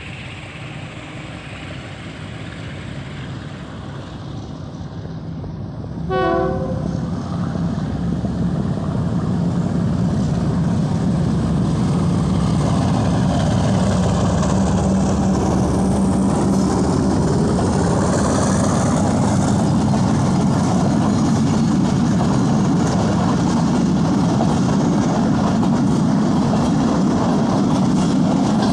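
Pakistan Railways diesel locomotive hauling a passenger train, its engine growing louder as it approaches. It gives one short horn blast about six seconds in. It then passes close with a steady engine rumble and the coaches' wheels clattering on the rails.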